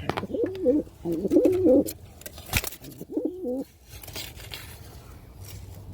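Pigeon cooing: three low, wavering coo phrases, the last a little after the halfway point, with one sharp click between them.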